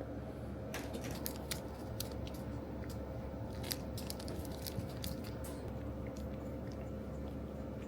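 A run of sharp, crisp clicks and crunches, thickest in the first five seconds or so, over a steady faint hum.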